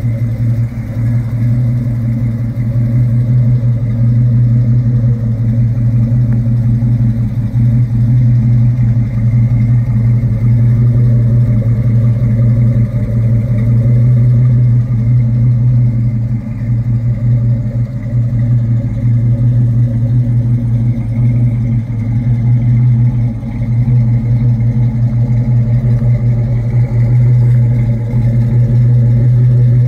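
1967 Ford Mustang GT S-Code's 390 cubic-inch big-block V8 idling steadily through its dual exhaust: a loud, even, deep burble with no revs.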